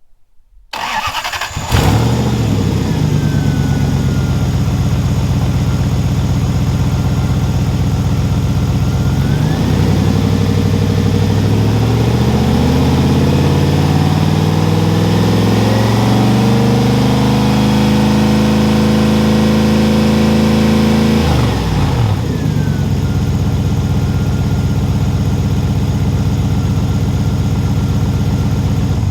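1992 Lexus SC400's 4.0-litre V8 cranking briefly and catching, then idling evenly. About nine seconds in it is revved gradually up to around 3,000 rpm, held there for several seconds, dropped back to idle, and the engine cuts off at the end.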